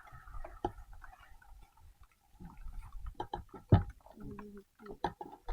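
Hand tools clicking and knocking irregularly on metal during a roadside motorcycle repair, with one louder knock a little past halfway.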